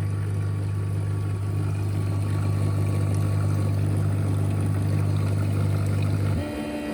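Ecovacs Deebot T10 Turbo robot vacuum running with a steady low hum. About six seconds in, the hum drops and is replaced by a quieter, higher-pitched hum.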